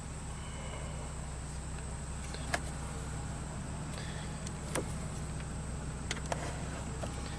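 2007 BMW wagon's engine idling with a steady low hum, with a few light clicks from handling tools and wires.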